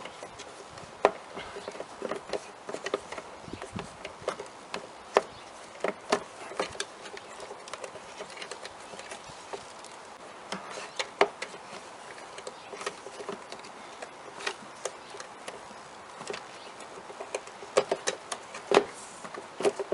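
Irregular plastic clicks, taps and rubbing from a car's plastic air filter housing and filter being handled and fitted, with a sharper knock every few seconds.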